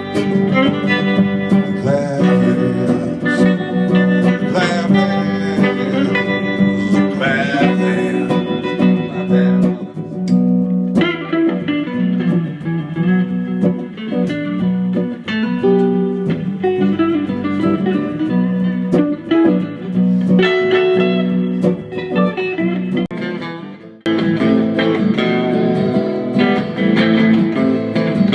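Live band playing an instrumental blues passage led by electric guitar. About 24 seconds in the music fades briefly and then starts again abruptly, as at an edit.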